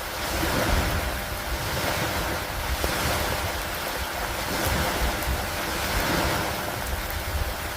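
Steady rain mixed with wind and lake water washing against a wooden dock, a continuous hiss over a low rumble that swells and eases every second or two.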